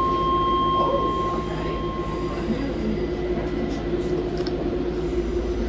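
Docklands Light Railway B92-stock train with its steady electrical hum and whine, and a high, steady squeal or tone starting sharply at the beginning and lasting about two and a half seconds.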